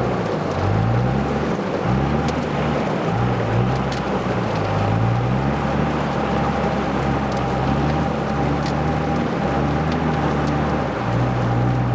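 Pickup truck engine revving in repeated rising surges while the truck is winched out of deep mud, over a steady high whine and a rushing, spray-like hiss.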